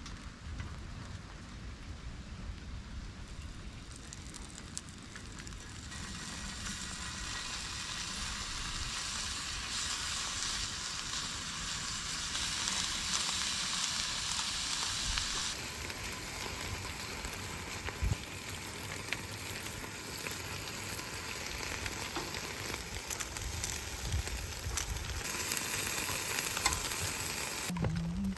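Food sizzling as it fries in a pan, a steady hiss that changes abruptly twice.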